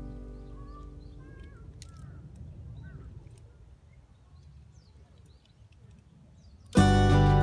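Background music fading out, then a few seconds of faint outdoor sound: a low rumble and several short bird chirps. Guitar music starts again loudly near the end.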